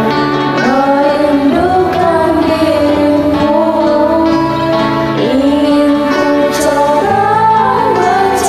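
A woman singing a slow, long-held melody over a karaoke backing track.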